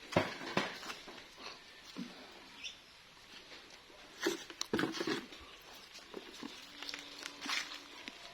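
Irregular knocks and taps, a couple at a time, with a faint steady hum for about a second near the end.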